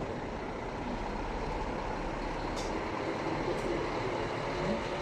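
Irizar i5 coach on a Scania chassis, its diesel engine running steadily, with a couple of faint clicks midway.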